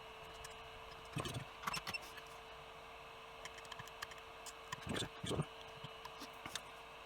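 A few faint clicks and knocks from small tools and parts being handled on a workbench, about a second in, near two seconds and around five seconds, over a steady hum.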